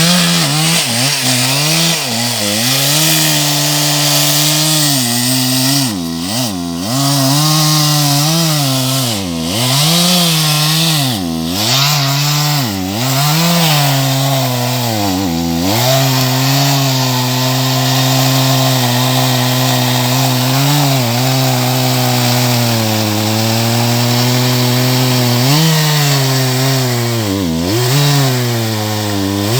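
Two-stroke chainsaw running near full throttle while cutting timber, its engine note dropping briefly and picking back up several times, mostly in the first half and once near the end.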